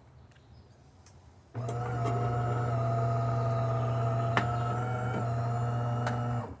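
Delonghi Magnifica XS espresso machine running after a shot: a steady hum with a whine above it. It starts suddenly about a second and a half in, has a single click midway, and cuts off near the end after about five seconds.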